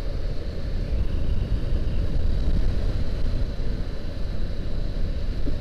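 Honda CBR500R motorcycle under way: a steady low wind rumble on the microphone, with engine and road noise underneath.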